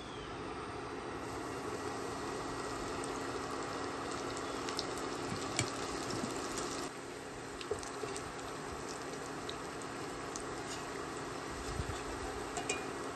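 Cornmeal-dredged okra frying in a stainless skillet of hot oil: steady sizzling and bubbling with a few sharp pops, over a steady low hum.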